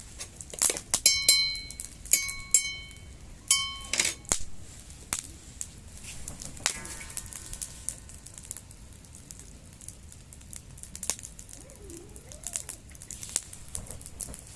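Wood fire crackling, with sharp irregular pops that are loudest in the first few seconds. Three short high-pitched tones sound in that same stretch.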